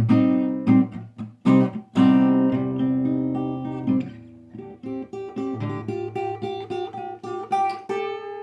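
Acoustic guitar played in a short instrumental break: strummed chords for about four seconds, then lighter picked notes, ending on a held note.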